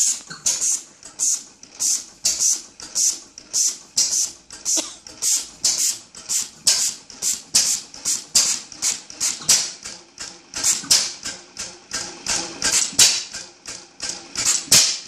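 1925 Deville No. 3 engine running, each stroke giving a sharp hissing puff about two to three times a second, somewhat unevenly spaced.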